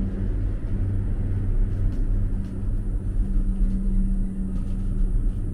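Steady low engine rumble with a constant low hum, as from a vehicle's engine running nearby; a few faint ticks sound over it.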